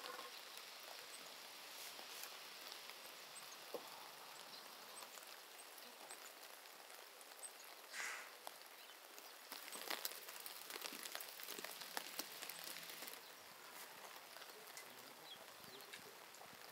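Light rain falling, drops pattering in many small scattered ticks. A short, somewhat louder sound about eight seconds in.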